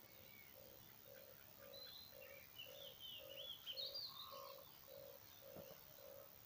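Faint birdsong: a steady run of short, low calls repeated about twice a second, with higher chirps and twittering from other birds over the middle few seconds.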